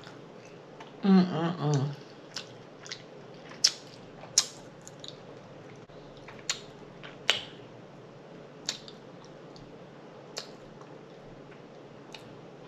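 Close-miked eating: a person chewing with wet lip smacks and mouth clicks, scattered and irregular, with a brief vocal sound about a second in.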